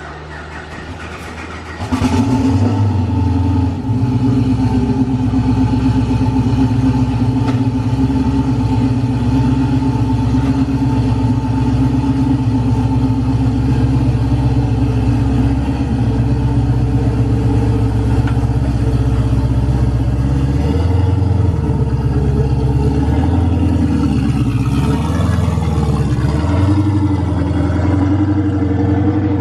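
Twin-turbo LS V8 in a Fox body Mustang running at a steady idle, coming in suddenly about two seconds in. Near the end its pitch dips and rises a few times.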